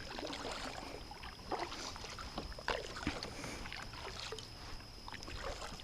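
Faint sounds of a kayak on the water: a low steady rumble with a scattering of small knocks, clicks and light splashes on the hull.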